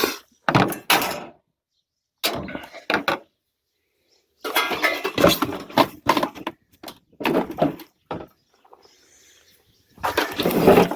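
An old RV hot water heater being pulled out of its wall opening: irregular bursts of scraping and knocking as the unit is worked loose, with a longer stretch of scraping midway and a loud knock near the end.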